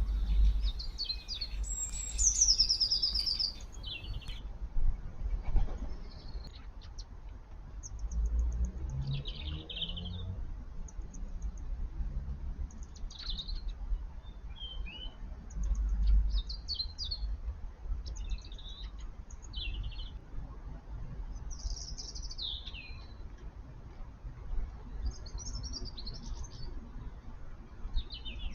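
Garden birds at feeders calling: many short, scattered chirps, whistles and quick clicking runs, with a low rumble underneath.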